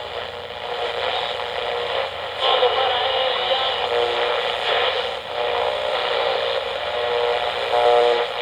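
Heavy, steady hiss and surface noise of an old radio broadcast recording, with faint wavering tones beneath it.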